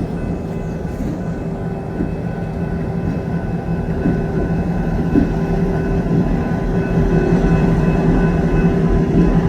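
Diesel passenger train's locomotive running with a steady low drone and a faint steady whine, slowly growing louder.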